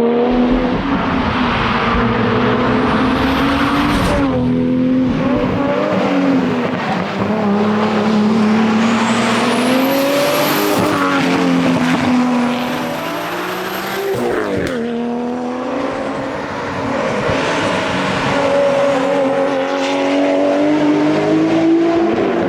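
Nissan R33 GT-R's twin-turbo straight-six engine pulling hard at speed, its pitch rising and falling as it revs up and lifts off, with sharp drops about 4 seconds and 14 seconds in.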